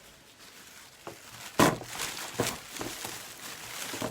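Handling noise from small welding cable connector adapters being picked up and compared: a few short knocks and clicks, the loudest about one and a half seconds in.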